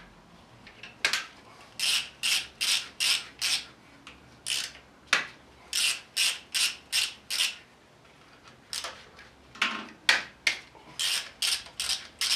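Hand ratcheting wrench being worked on 10 mm bolts: a quick rasp of the pawl on each back-swing, about three strokes a second, in runs with short pauses between them.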